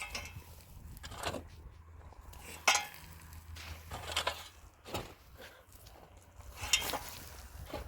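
A handful of separate knocks and clinks of objects being handled, about five in all, the sharpest about two and a half seconds in.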